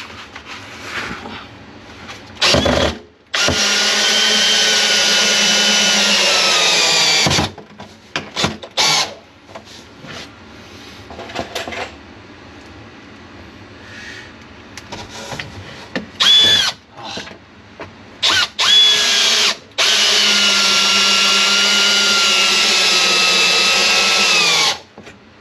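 Power drill driving 3-inch wood screws into 2x4 supports and studs: two long runs whose motor pitch sags slightly as the screw bites in, with several short trigger bursts between them.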